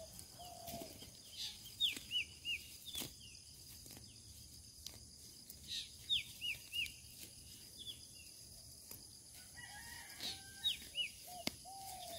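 Birds calling in the open: groups of three or four short, high downward chirps repeating every few seconds, with some lower curved calls between them.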